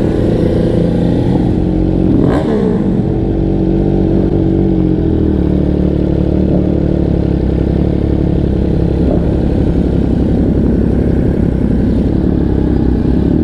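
MV Agusta F3 inline-three sportbike engine running under way in city traffic, with a quick swing in revs about two seconds in, then settling to a lower, steady note.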